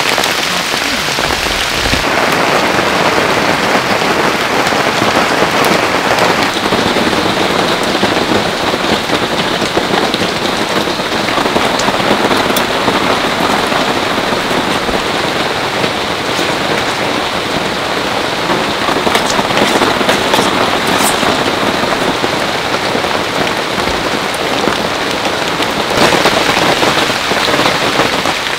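Heavy rain falling steadily, a dense even hiss with a few sharper drop clicks. Its tone shifts slightly a few times.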